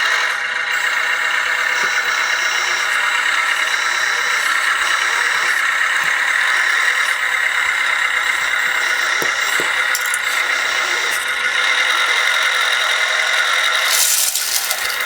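Electric drive motor and gearing of a 1/14-scale RC construction model, whining steadily in several high tones. The sound turns briefly louder and hissier near the end.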